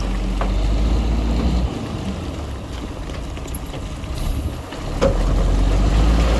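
Diesel engine of heavy earthmoving machinery running, with a deep rumble that eases off nearly two seconds in and comes back about five seconds in.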